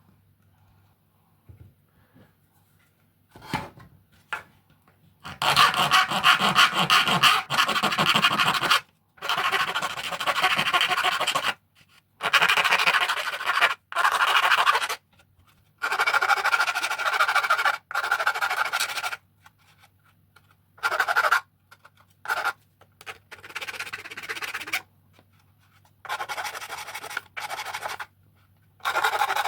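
Masking tape pulled off the roll in a series of long crackling peels, each lasting one to three seconds, about nine strips in all.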